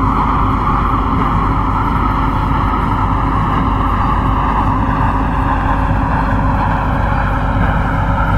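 MTR Kwun Tong line C-Train running between stations: a steady rumble of wheels on rail with a faint motor whine above it.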